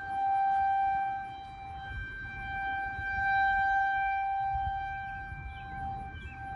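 A steady, horn-like drone held on one pitch with a stack of overtones, swelling and fading and breaking off briefly about two seconds in and again near the end, over a low rumble: the kind of unexplained 'strange sky sound' recorded in 2020.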